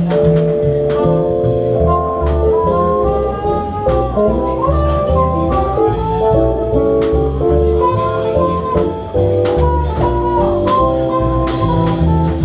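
Swing band playing an instrumental jazz passage: a horn melody over a moving bass line and drum kit.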